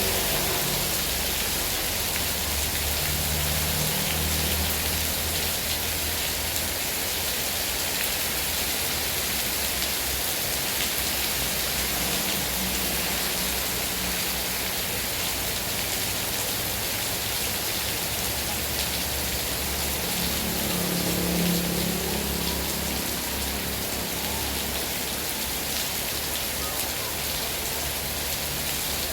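Heavy rain falling steadily, a dense even hiss with the patter of drops on surfaces. Faint low rumbles come and go beneath it, loudest about a fifth of the way in and again about three quarters through.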